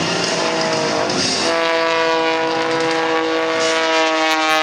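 Zivko Edge 540 aerobatic plane's piston engine and propeller droning. About a second and a half in, a strong buzzing tone comes in and sinks slowly in pitch.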